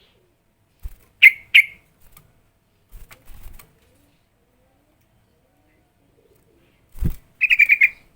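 Yellow-vented bulbul calling: two loud, sharp notes a little after a second in, then a quick run of about six chattering notes near the end. A few dull thumps come in between, the loudest just before the final run.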